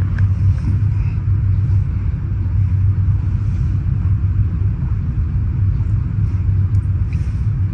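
Steady low rumble of a moving passenger train heard from inside a sleeping car: wheels running on the rails and the car body rumbling.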